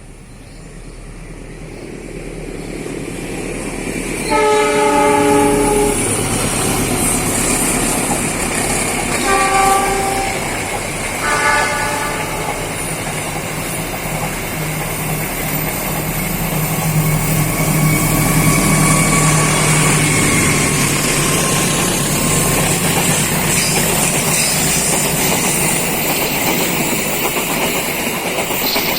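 Indonesian passenger train approaching and passing close by, its locomotive horn sounding one long blast and then two shorter ones. The steady rumble and clickety-clack of the carriages going by follows.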